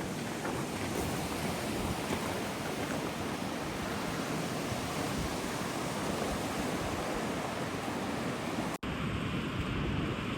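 Steady rushing noise of wind and water, with wind on the microphone. About nine seconds in it drops out for an instant, then goes on as a duller, steadier rush.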